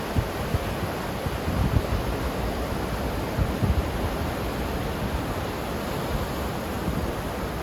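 Ocean surf washing steadily, with a few brief low thumps scattered through.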